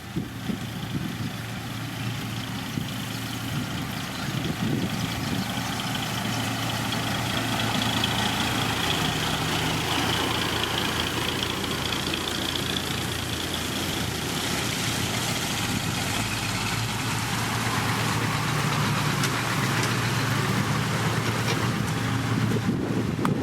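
Heavy diesel engine of a road construction machine running steadily, growing louder over the first several seconds.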